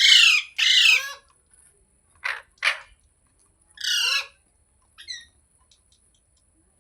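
Rose-ringed (Indian ringneck) parakeet calling in short separate calls, each falling in pitch: two loud ones right at the start, two short ones a couple of seconds in, another about four seconds in and a faint one near the end.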